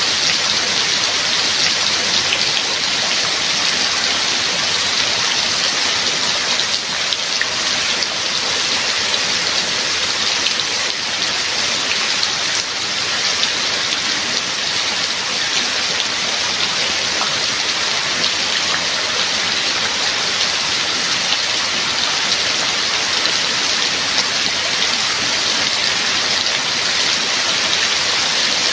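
Steady heavy rain falling, a constant hiss with a patter of individual drops.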